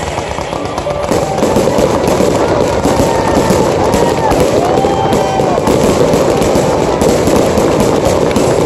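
Aerial fireworks display: a dense run of bangs and crackling from bursting shells, growing louder about a second in.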